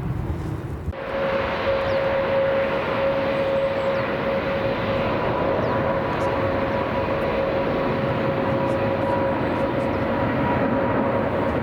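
Jet airliner engines running with a steady loud rush and a steady whine, starting abruptly about a second in.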